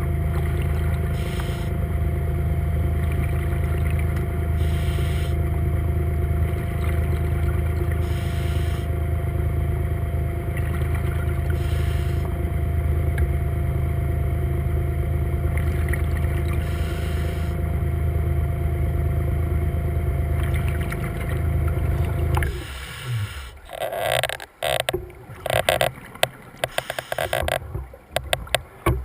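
Seacraft underwater scooter's electric motor and propeller running steadily underwater, a deep hum with a steady whine, broken every few seconds by short bursts of bubbles. About three-quarters of the way through the motor winds down and stops, leaving uneven bubbling and clicks.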